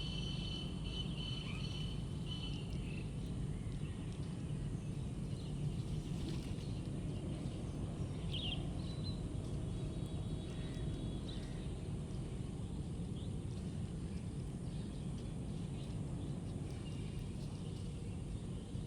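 Birds calling outdoors: scattered short high chirps, most in the first few seconds and again about eight seconds in, over a steady low rumble of background noise.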